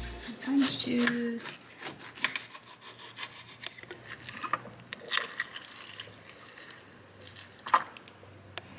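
Irregular rubbing and scraping with scattered small clicks and squishes, as fresh oranges are squeezed for juice.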